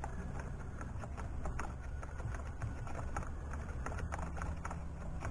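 Irregular small metallic clicks and taps of hand tools, a socket and extension, working a spark plug into a 2013 Ford Escape's 2.0 engine. A low steady hum runs underneath.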